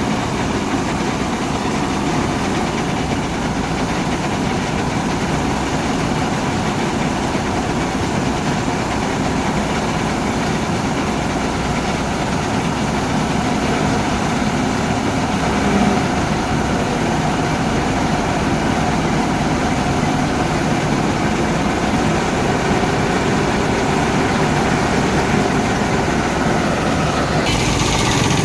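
A heavy vehicle engine idling steadily. A hiss comes in near the end.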